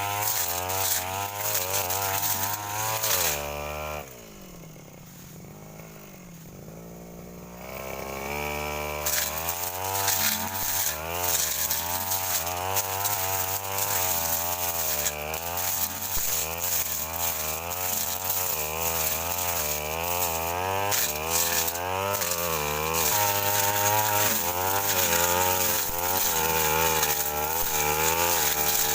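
Brush cutter's two-stroke engine running at high revs, its pitch wavering up and down as the blade cuts through brush. About four seconds in, the throttle is released and the engine drops to a quieter idle for a few seconds, then revs back up and keeps cutting.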